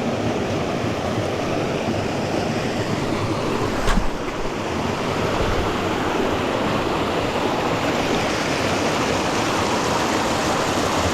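Creek water rushing steadily over rocks, with a single sharp click about four seconds in.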